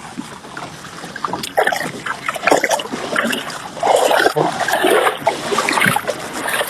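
Kayak paddle strokes splashing and dripping in the water, with irregular small knocks.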